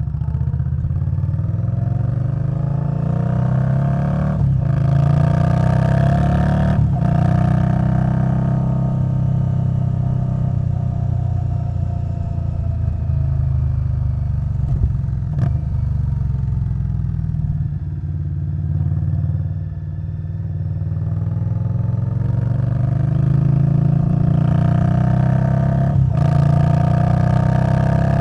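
V-twin engine of an Indian Scout Bobber Twenty through a Vance & Hines Twin Slash exhaust, riding on the road: it pulls up in pitch with quick breaks for upshifts about four and seven seconds in, eases off and falls through the middle, then accelerates again near the end.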